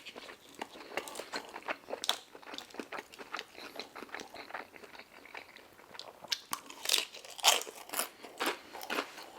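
Close-miked chewing and biting of food: a steady run of short wet mouth clicks and crunches, louder and more frequent in the last few seconds.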